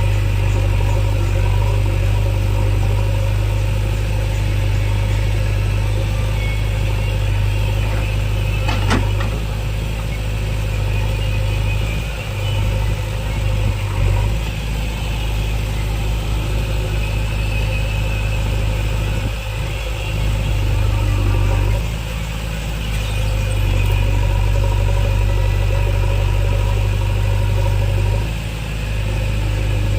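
JCB backhoe loader's diesel engine running steadily, its sound dipping briefly a few times as the load changes, with one sharp clank about nine seconds in.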